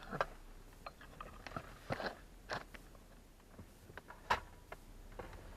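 Irregular clicks and taps of a screwdriver working on screws in hard plastic dash trim while the old HVAC control unit is unscrewed, with a few sharper knocks, the loudest a little past the middle.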